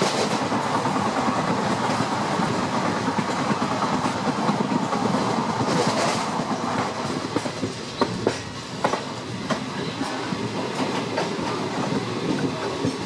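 Train rolling along the track: a steady rumble, with sharp clicks of the wheels over rail joints standing out in the second half.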